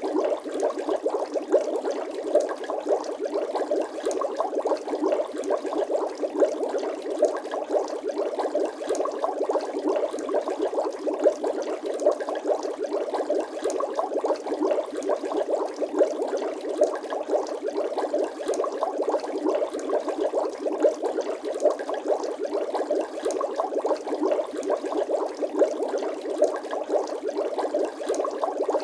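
Continuous bubbling sound effect: a dense, even stream of small liquid pops and gurgles, with no bass.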